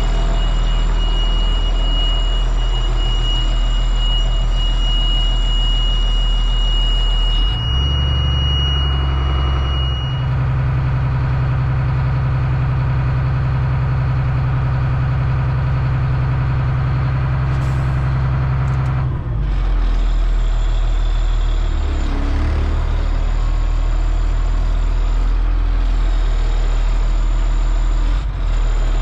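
Blue Bird school bus's Cat C7 inline-six diesel engine running. About a third of the way in its speed steps up and holds higher for about twelve seconds, then falls back. A steady high-pitched tone sounds over the engine at first and stops about a third of the way in.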